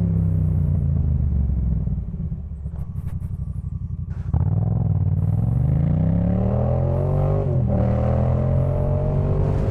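Yamaha MT-07's parallel-twin engine through a Jeskap K4 full exhaust, ridden on the road: the note falls as the throttle is eased off, idles low and uneven for a couple of seconds, then opens up sharply about four seconds in. The pitch climbs under acceleration, dips at a gear change, and climbs again.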